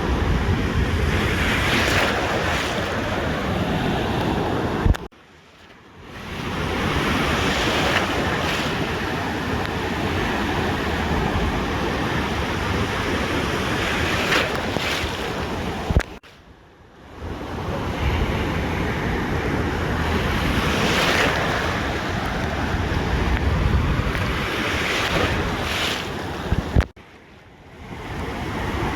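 Ocean surf: waves breaking and washing in every few seconds, with wind buffeting the microphone. The sound cuts out abruptly three times, each time with a click and then a second or so of near quiet before it fades back in.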